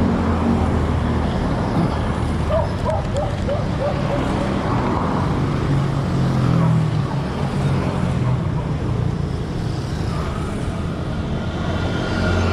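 Road traffic with a motor vehicle's engine running close by, a steady low hum.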